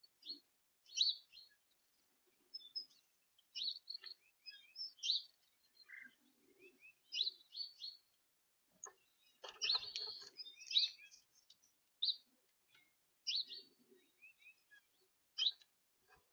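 Small songbirds chirping and twittering in short, repeated high calls at a backyard bird feeder. A brief rustling knock sounds about two-thirds of the way through.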